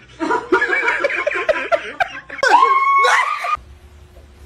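A person laughing in quick repeated bursts, followed about two and a half seconds in by one longer drawn-out vocal sound that glides in pitch.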